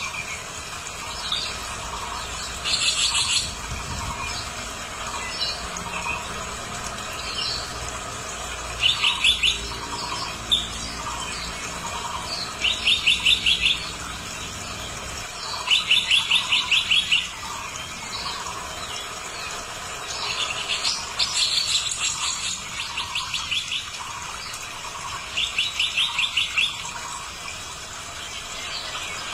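A bird calling in short, rapid trills of evenly repeated notes, each about a second long and coming every few seconds, over a steady background drone.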